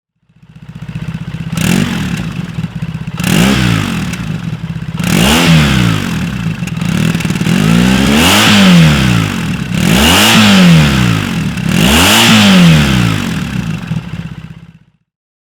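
A Triumph Bonneville T100's air-cooled parallel-twin engine, breathing through an SC-Project 2-1 stainless full exhaust with a conical 70s-style muffler, idles while the throttle is blipped repeatedly. The revs rise and fall about every two seconds, settling back to idle between blips.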